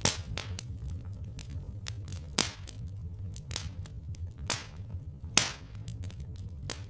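Wood fire crackling: irregular snaps with a few louder pops, over a steady low rumble.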